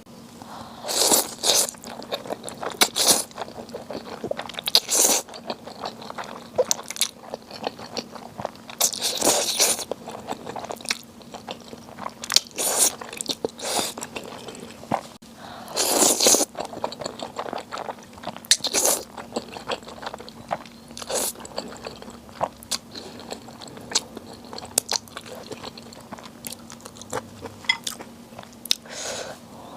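Close-miked mukbang eating sounds: crunchy bites and chewing, coming in irregular bursts every second or few, with a few longer crunching spells.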